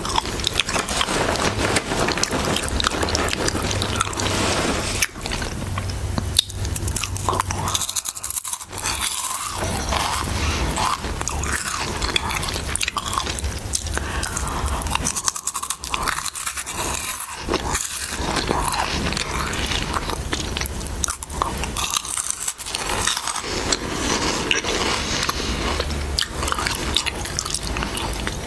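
Close-miked crunching and chewing of Harvest Snaps green pea snack crisps: a dense run of crackly bites and chews that pauses briefly several times.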